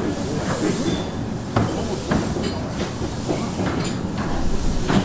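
15-inch-gauge miniature steam railway train moving off from the station, heard from an open passenger carriage. A steady rumble is broken by irregular clanks and knocks from the carriages and wheels.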